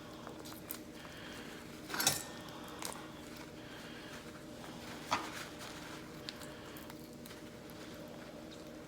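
Faint handling sounds of raw chicken being pushed down the bone by hand, with a few light knocks, the sharpest about two seconds in and another about five seconds in, over a steady low hum.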